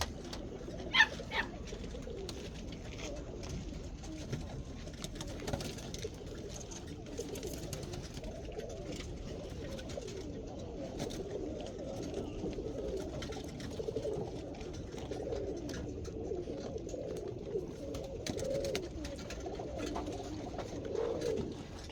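Roller pigeons cooing, many low overlapping coos throughout. A brief sharp sound about a second in is the loudest moment.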